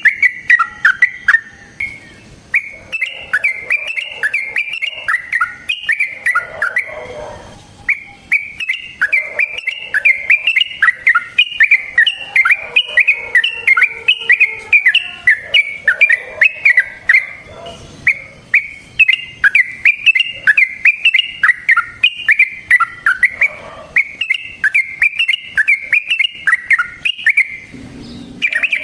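Yellow-vented bulbul (trucukan) singing long runs of quick, bubbling, chattering notes, phrase after phrase with only brief pauses.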